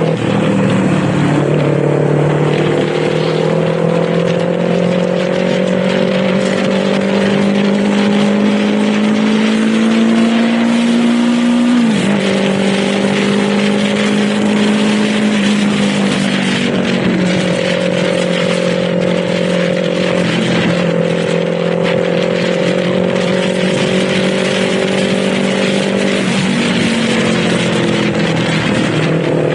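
Kawasaki Z400 parallel-twin engine running under way, its revs climbing slowly and then dropping sharply about twelve seconds in, with several smaller dips and recoveries later, over steady wind and road rush.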